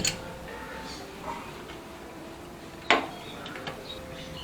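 Hand tools clinking on metal: a light click at the start and one sharp metallic knock about three seconds in.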